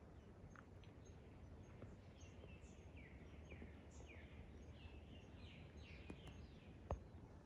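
Faint bird calls: a quick run of short chirps, each falling in pitch, repeated two or three times a second for a few seconds, over a quiet outdoor background with a low rumble. A single sharp knock near the end.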